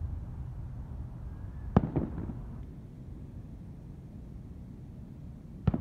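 Aerial fireworks shells bursting in the distance. A sharp bang comes about two seconds in, followed by a short run of smaller pops, and another bang comes near the end, over a steady low background rumble.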